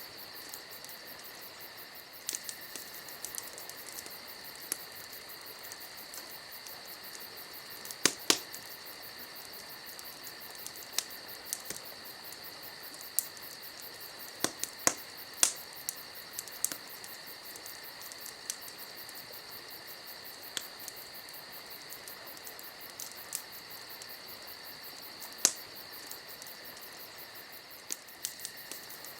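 Campfire crackling with scattered sharp pops, a few louder ones about eight seconds in, midway and near the end, over a steady high chirring of crickets.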